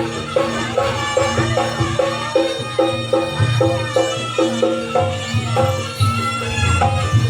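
Live Javanese jaranan gamelan music: a fast, steady pattern of pitched struck tones, several a second, over a continuous low drum beat.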